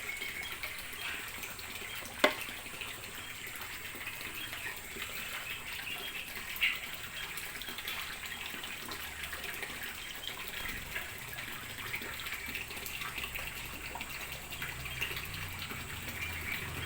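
Water running and trickling steadily with small splashes. A single sharp click comes about two seconds in.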